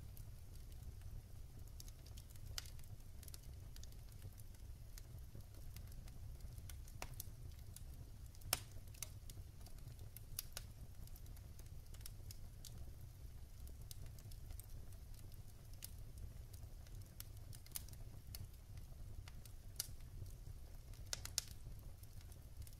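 Wood fire crackling in a fireplace: irregular sharp pops and snaps from the burning logs over a low steady rumble, with one loud pop about a third of the way in and a quick run of pops near the end.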